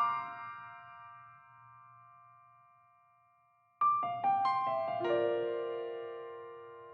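Background piano music: a quick run of notes rings out and fades, then another run begins about four seconds in and settles into a slowly fading chord.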